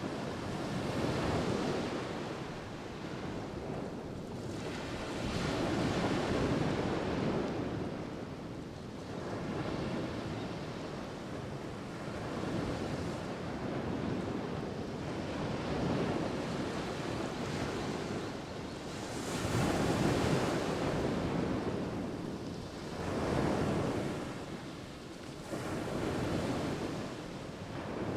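Sea waves breaking and washing up the shore at the water's edge. The noise swells as each wave comes in and fades as it draws back, about every three to five seconds.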